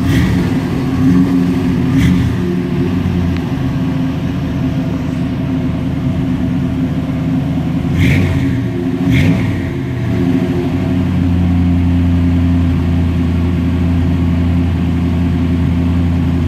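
The engine of a 1955 Chevrolet Bel Air idles, with four short throttle blips that rev it up and let it drop back: two near the start and two about halfway through. After that it settles into a steady idle.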